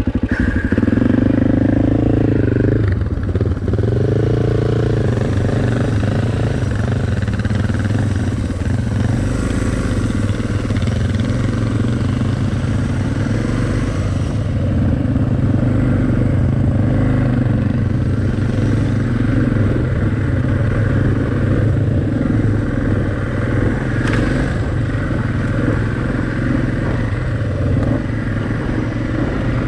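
Single-cylinder four-stroke dual-sport motorcycle engine running while riding. Its pitch rises and falls a few times over the first few seconds, then holds fairly steady.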